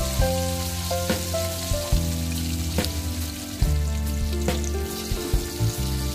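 Chicken pieces sizzling as they deep-fry in hot oil in a wok, with a few sharp clicks. Over the sizzle an acoustic guitar is being played, with held chords and low notes that change every second or so.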